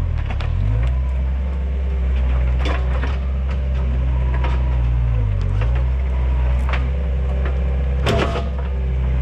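Takeuchi TL130 compact track loader's diesel engine running under load, its pitch dipping briefly near the start and again about five and a half seconds in. Several sharp cracks and knocks sound over it, the loudest a little after eight seconds in.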